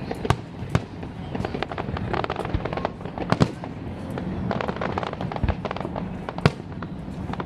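Fireworks bursting overhead: many sharp bangs and crackles in quick, irregular succession.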